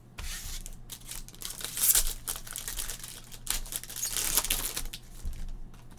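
Crinkling and tearing of a trading-card pack wrapper being ripped open by hand, a run of rustling crackles that dies down about five seconds in.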